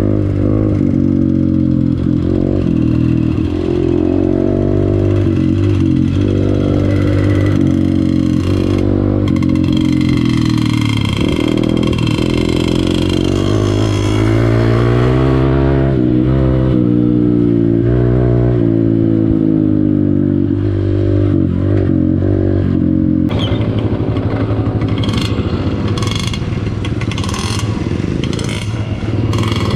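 Honda CRF150L dirt bike's single-cylinder four-stroke engine under way on a trail, its pitch rising and falling repeatedly with the throttle. From about two-thirds of the way in, short clattering knocks come several times over the engine.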